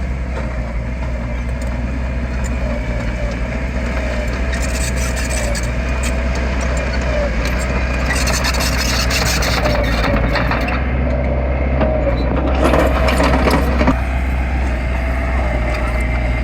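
Diesel engine of heavy earthmoving machinery running steadily, with a wavering droning whine. Three times, for about two seconds each, a burst of hissing, rushing noise rises over it.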